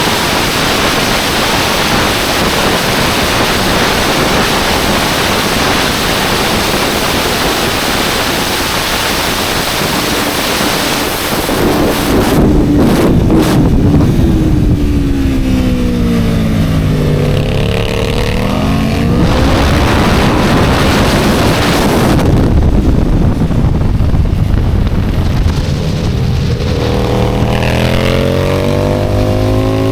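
Aprilia RSV4 superbike's V4 engine at high revs under heavy wind rush. About halfway through, the pitch drops in steps as it downshifts and slows, then climbs again as it accelerates. It drops and climbs once more near the end.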